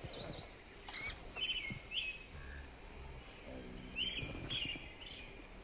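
Small songbirds chirping: short calls that sweep up and down, repeating every second or so over low outdoor background noise, with a few faint knocks.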